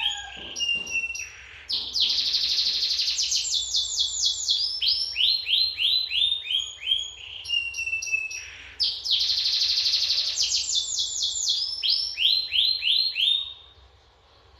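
Canary singing a long, loud song of rapid trills: runs of quick falling notes alternate with dense rolls and a short level whistle. It tails off near the end.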